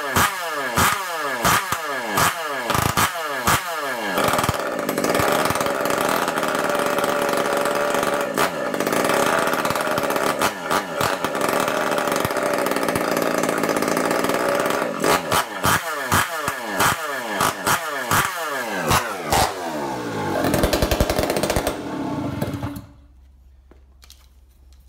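Kawasaki KD100 single-cylinder two-stroke engine in a mini bike running after a fresh start. The throttle is blipped about twice a second, each rev falling away, then held at a steady speed for about ten seconds and blipped again. Near the end the engine revs hard, then stops.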